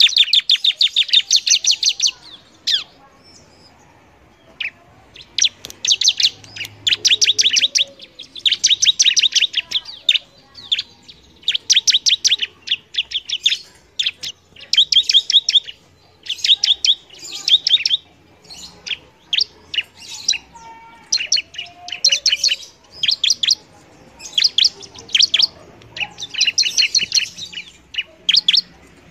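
Ciblek (prinia) singing: phrases of rapid, sharp high chirps, each lasting a second or two, repeated over and over with short pauses between them.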